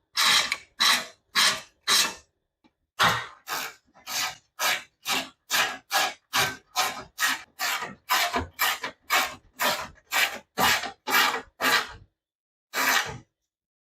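Hand tool rubbing back and forth on a part in steady strokes, about two a second. There is a short pause early on and another near the end before one final stroke.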